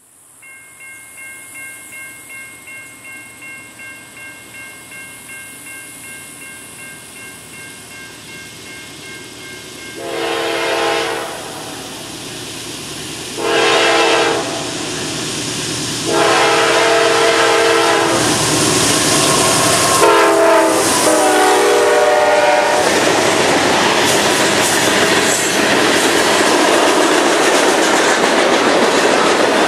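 Diesel freight train approaching and passing. The locomotive horn sounds two blasts of about a second each, then a longer one that drops in pitch as the locomotives go by. From then on comes the loud rolling rumble and clickety-clack of the freight cars passing close by.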